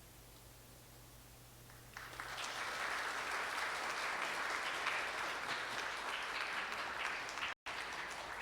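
Audience applauding, starting about two seconds in after a brief quiet.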